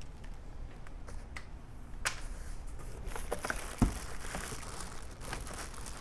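Plastic packaging crinkling and pressure-washer parts being handled during assembly, with scattered light clicks and one sharp knock just before the middle.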